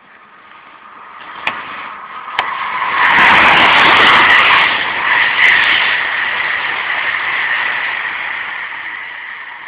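Train passing at speed on the near track. The rush of wheels and air builds over about three seconds, is loudest for about two seconds, then fades slowly, with a steady high whine running through it.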